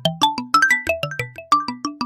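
A smartphone ringtone playing: a quick melody of short, fast-fading notes, about seven a second, over a lower bass line.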